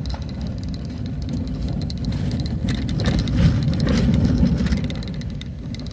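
A vehicle driving on a rough road: a steady low rumble with many small rattles and knocks.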